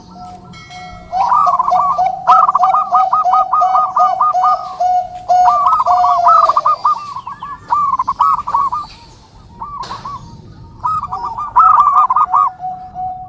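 Zebra dove (perkutut) cooing: quick runs of short, evenly repeated coo notes in phrases a few seconds long, with a pause near the middle.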